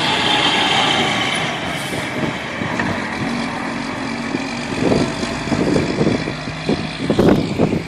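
Traffic noise from a large road vehicle's engine in a snowstorm, with wind gusting on the microphone in bursts from about halfway through.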